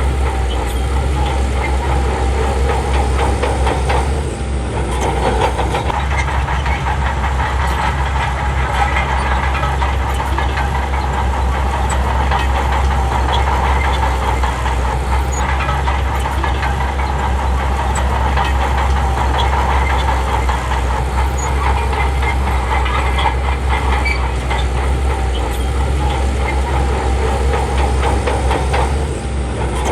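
Heavy diesel earthmoving machinery running steadily, a deep engine hum with a dense clatter over it. It dips briefly about four seconds in and again near the end.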